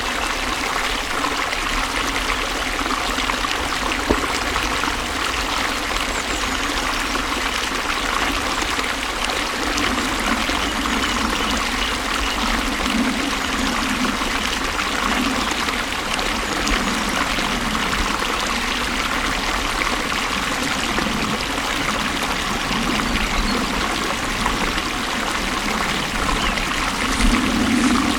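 Flowing water: a stream running and trickling steadily.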